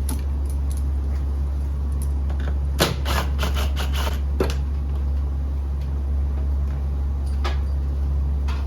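Scattered clicks and knocks of hard parts being handled, the loudest a sharp knock about three seconds in, over a steady low hum.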